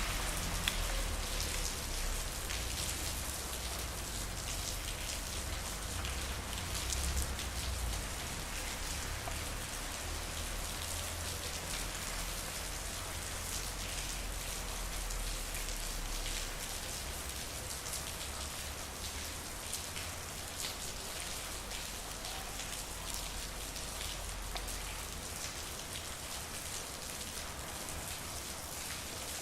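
Steady rain falling on a street, a dense patter of drops hitting hard surfaces. A low rumble runs underneath and fades out near the end.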